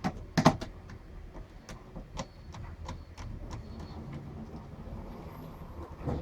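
Irregular sharp clicks and taps of small hard objects being handled, the loudest about half a second in.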